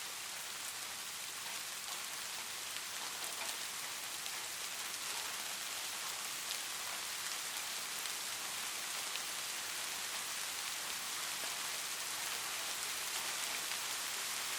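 Steady light rain: an even hiss with scattered patters of drops.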